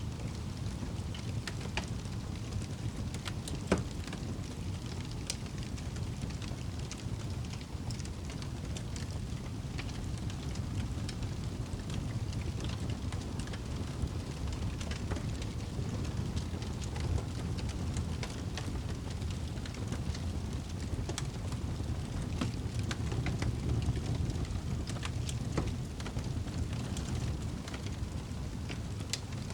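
Campfire crackling, with scattered sharp pops over a steady low rumble; one pop about four seconds in stands out louder than the rest.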